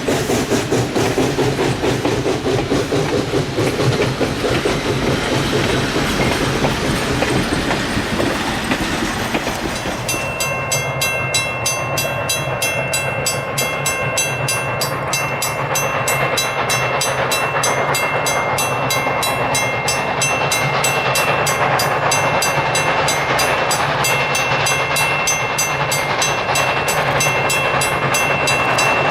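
Everett Railroad 2-6-0 No. 11 steam locomotive and its train running, with a steady rhythmic rumble. From about ten seconds in, the locomotive bell rings steadily over it.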